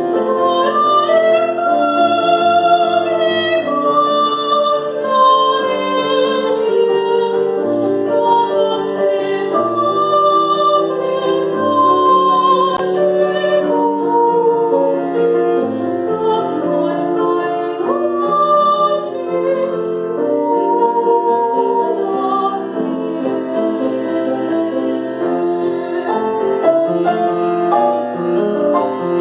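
A female classical singer with a wide vibrato, singing with piano accompaniment.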